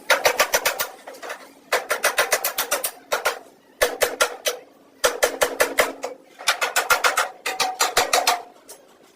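Rapid hand-hammer blows on car body sheet metal, in bursts of quick strikes about eight a second with short pauses between, each blow ringing.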